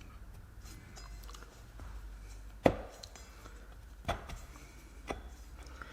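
Three sharp knocks about a second apart, the first the loudest, from the transmission drum and tool as the stuck planetary carrier is worked loose.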